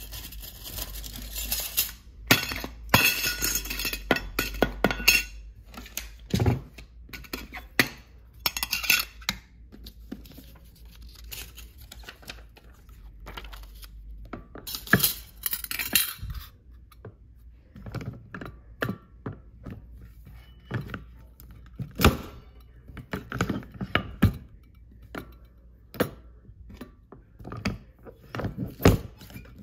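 A Neil Enterprise hand-press button maker being test-run after lubrication: metal clinks and thunks as button parts are set into the dies and the press is worked, a scattering of separate knocks with stretches of rustling handling between them.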